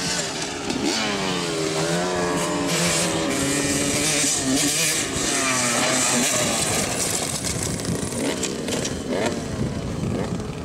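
Dirt bike engine revving, its pitch rising and falling repeatedly.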